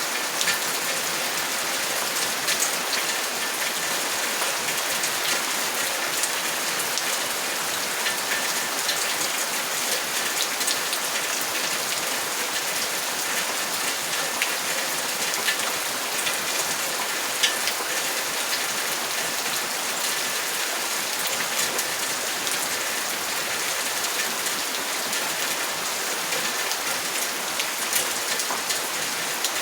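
Steady heavy rain, an even hiss with many individual drops striking close by as short sharp ticks.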